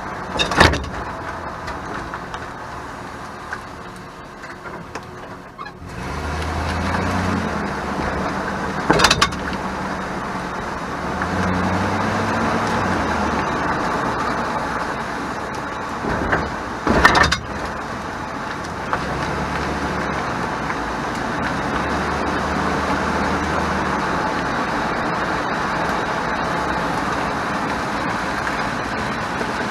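2001 Chevrolet Silverado 1500 pickup driving, with engine and road noise that picks up after the first few seconds. It gives sharp rattling clatters three times as the rear wheels hit bumps, a rattle the owner traced to the parking (e-brake) mechanism.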